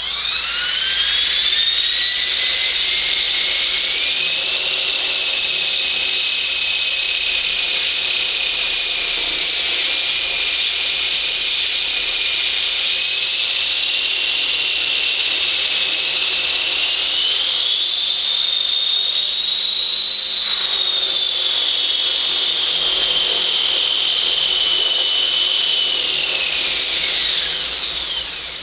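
Genesis 450 RC helicopter's motor and rotor head spooling up to a steady high-pitched whine, stepping up in speed twice, then spooling down near the end. It is a test run after a rebuild from a crash.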